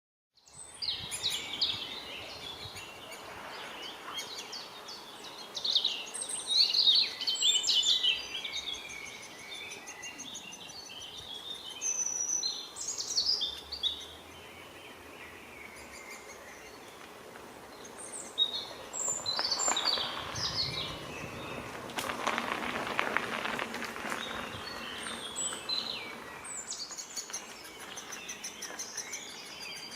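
Wild birds calling and singing, many short, varied high phrases over a background hiss, with a stretch of rushing noise about two-thirds of the way through. Near the end a fast, even series of high calls begins.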